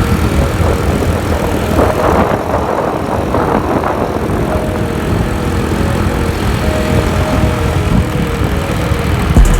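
Small motorcycle running steadily on the road, with a continuous rush of noise.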